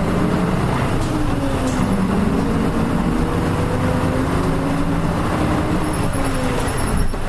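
Nissan Diesel UA452 city bus engine pulling away under acceleration. Its note climbs, drops back about a second in, then climbs again and eases off near the end, as the bus shifts up through the gears.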